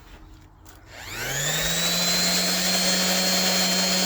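A variable-speed electric power tool, set to speed 5 of 6, switched on about a second in: its motor spins up with a rising whine and then runs steadily. The motor is fairly quiet.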